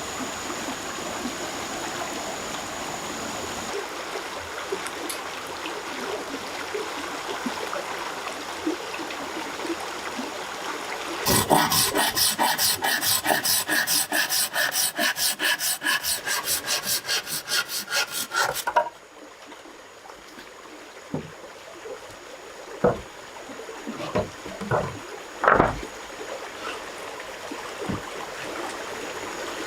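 A saw cutting wood by hand, with rapid, regular back-and-forth strokes for about seven seconds starting about a third of the way in, over a steady rushing background. After the sawing stops, a few scattered knocks.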